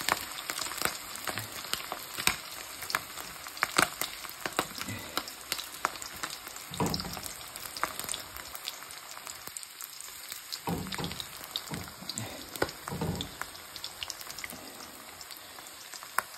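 Beer-battered squid deep-frying in hot oil in a pan: a steady sizzle with frequent sharp pops and crackles.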